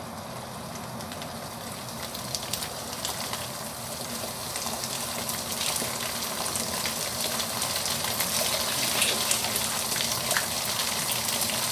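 Curry paste sizzling and crackling in hot oil in a wok over a gas flame. It grows louder as the pan heats up, with sharp pops more frequent in the second half.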